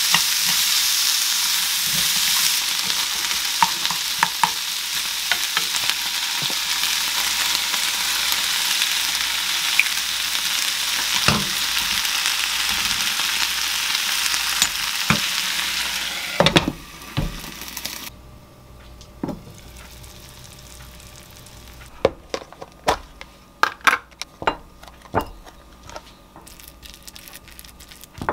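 Duck meat and cabbage sizzling steadily in a frying pan while a wooden spatula stirs and scrapes through them. About sixteen seconds in the sizzling gives way to a few loud knocks, then a much quieter stretch with scattered light taps and clinks.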